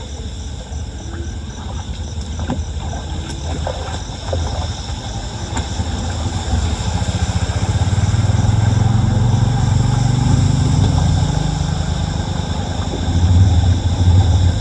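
A motor vehicle's engine running with a low hum that grows louder from about halfway in, as if approaching. A few light clicks come in the first few seconds.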